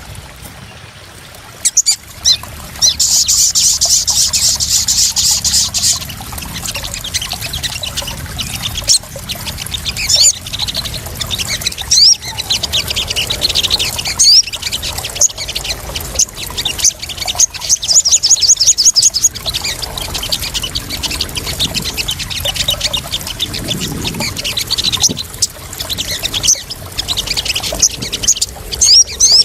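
A sogon (sunbird) calling in repeated rapid, high chattering trills over a steady splashing and trickling of water, a lure-and-calming recording for captive sogon birds.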